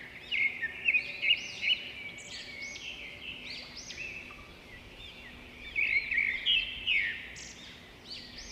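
Many small birds chirping together, a dense overlapping chatter of short, high chirps, with louder clusters near the start and again about six seconds in.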